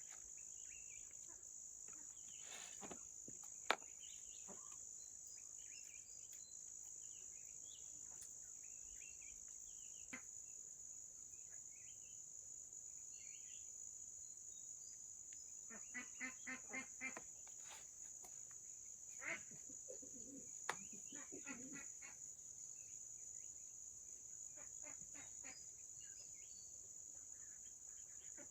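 Steady high-pitched insect chorus, with scattered short chirps and a few sharp clicks over it. Around the middle comes a quick run of about five pulses.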